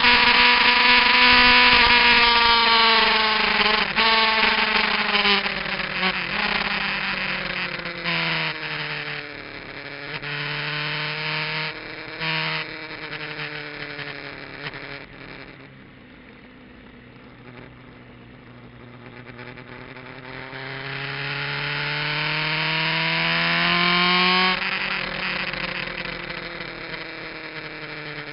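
Kawasaki GPZ900R's inline-four engine through an aftermarket muffler, on track. Its pitch falls from high revs at the start and gives a few short bursts in the middle. It then sits at low revs before rising steadily under acceleration and dropping off suddenly near the end.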